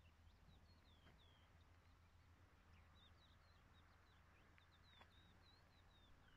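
Faint bird song, a run of short, high, falling chirps, over near silence and a low steady hum.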